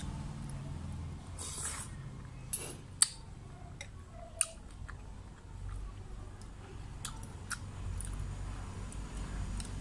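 A person chewing a mouthful of lomi noodles: soft wet chewing and squishing. A few sharp clicks of the metal spoon and fork come through it, the loudest about three seconds in.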